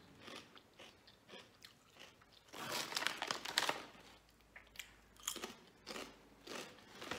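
Crunching and chewing a crisp barbecue-flavoured snack chip, in short crackly crunches with the loudest run about three seconds in.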